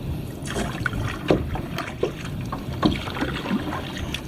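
Water sloshing and splashing close to the microphone: irregular small splashes over a steady low rumble.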